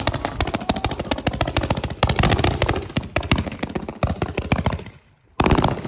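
A string of firecrackers going off in a rapid, unbroken run of sharp cracks, many a second. It dies down about five seconds in, then a second dense burst of cracks follows.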